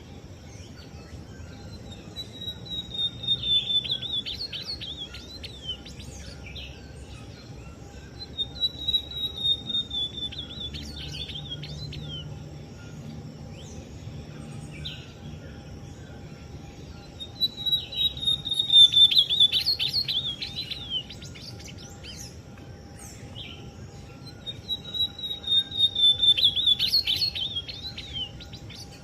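Ultramarine grosbeak (azulão) singing: four song phrases several seconds apart, each opening with a high falling whistle and breaking into a quick run of notes.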